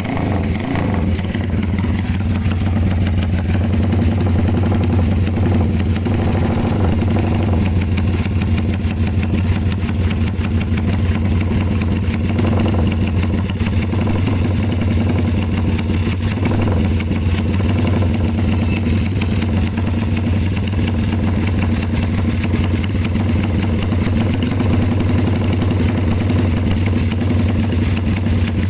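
Motorcycle engine idling steadily through an aftermarket BMS X-one exhaust muffler, with a deep, even exhaust note.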